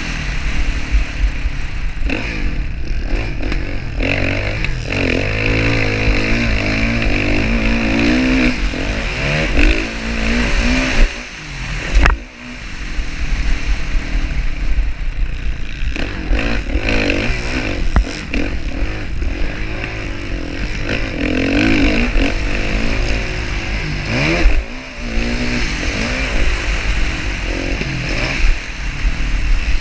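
Motocross dirt bike engine revving up and falling back over and over as the rider works the throttle and gears. The engine drops off briefly about twelve seconds in, with a sharp knock, then picks up again.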